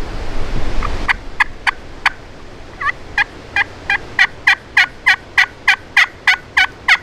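A long series of turkey yelps, about three short notes a second, growing louder toward the end. Gusting wind rumbles on the microphone for the first second or so.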